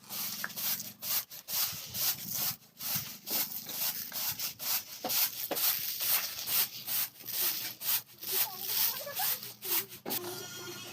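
Rhythmic back-and-forth scraping by hand, about two strokes a second, kept up throughout.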